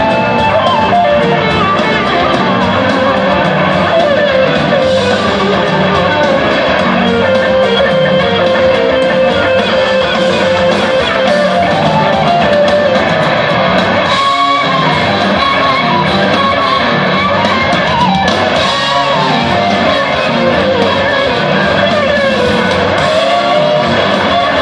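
Live rock band jam: a lead electric guitar plays gliding, bending notes over a full band with bass and drums.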